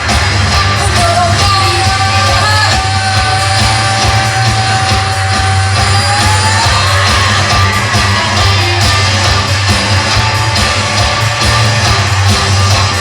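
Loud rock music with yelled vocals over a dense band sound; a long held high note slides upward about six seconds in.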